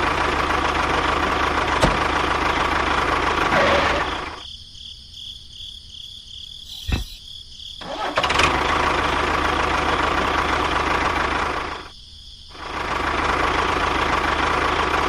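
A motor running in three stretches of about four seconds each, dropping out twice in between.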